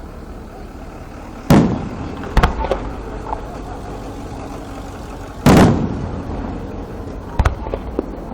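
Fireworks shells bursting: two loud booms about a second and a half and five and a half seconds in, each trailing off in a rumble, with smaller bangs and pops in between and near the end.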